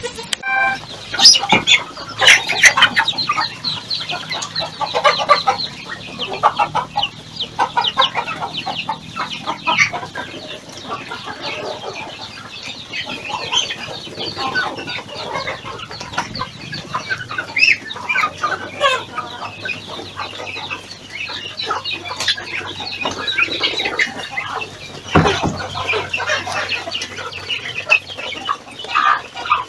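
A flock of chickens clucking, many short calls overlapping one another, with a single sharp click about 25 seconds in.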